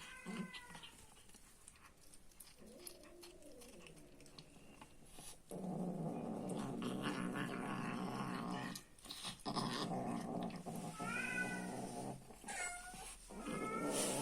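A cat growling low and steadily over its food while eating, an angry, food-guarding growl that twice runs for several seconds. Short meows and yowls break in near the start and several times near the end.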